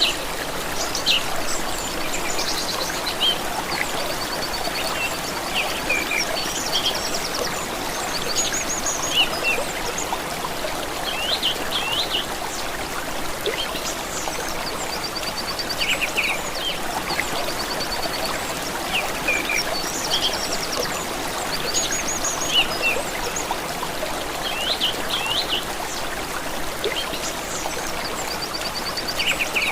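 Small stream trickling steadily, with songbirds singing over it: short chirps and rapid trills that recur every few seconds.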